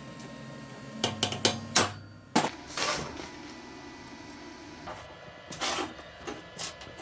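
Workshop handling noise: a quick run of sharp knocks and clicks about a second in, a louder knock with a short scrape after it, and more knocks near the end, as of hard parts or tools being set down and tapped. A faint low hum stops about two seconds in.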